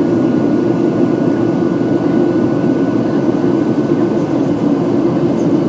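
Jet airliner's engines and airflow heard inside the passenger cabin, a loud steady noise during the climb after take-off, with a faint steady high whine.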